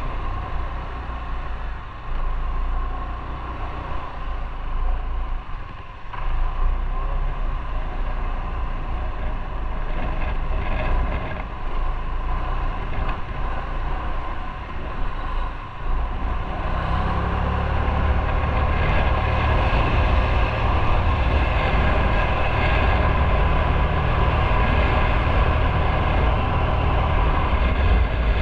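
Motorcycle running on the road, with wind rushing over the microphone; the rumble and wind grow louder a little past halfway through.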